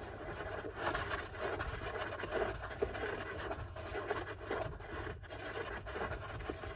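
Golden hamster digging in its sand bath: rapid, irregular scratching and scraping of sand under its paws.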